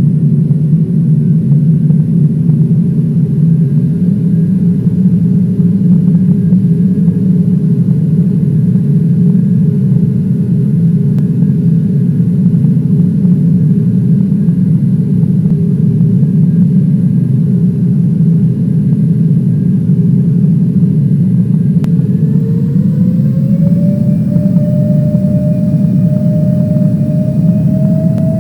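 Airliner engines and cabin rumble heard from inside the passenger cabin, with a steady engine whine; about three-quarters of the way through, the whine rises in pitch and holds higher as the engines spool up to more power.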